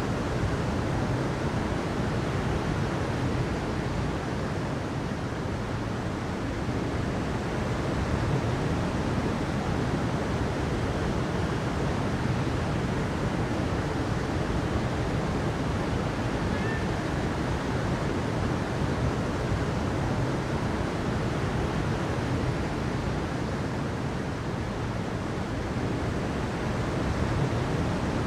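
Steady rush of flowing water: an even, unbroken noise, fullest in the low and middle range, with no swells or breaks.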